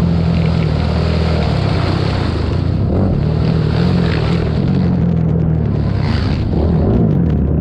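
Racing ATV engine running loud and continuous, its pitch rising and falling as the throttle opens and closes.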